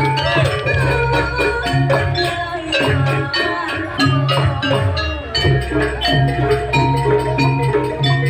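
Live Banyuwangi jaranan ensemble music: tuned metal mallet percussion playing a busy melody over drums keeping a steady beat.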